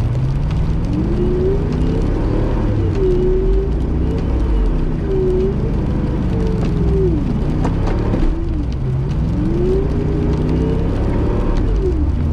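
Car engine revving up and dropping back over and over, a rise every two to three seconds, in low gear as the car struggles for grip climbing a slippery hill.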